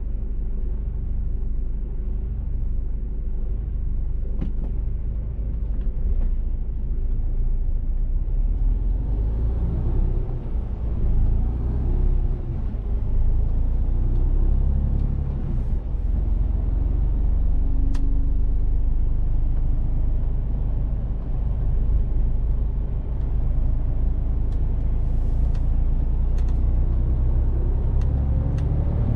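Mercedes-Benz Actros truck's diesel engine running on the move, with a steady low road rumble. It grows louder about a third of the way in, and near the end the engine note rises as the truck speeds up.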